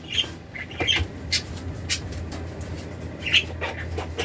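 Pet budgerigars chirping and squawking in short, scattered calls. A steady low hum comes in about a second in.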